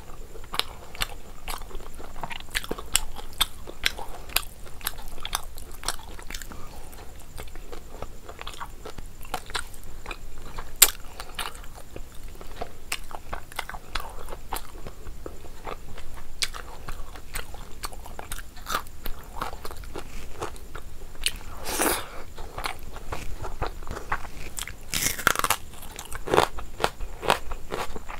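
A person chewing and biting a mouthful of rice and curry eaten by hand: a steady run of wet clicks and crunches. There are two longer, louder wet sounds about 22 and 25 seconds in.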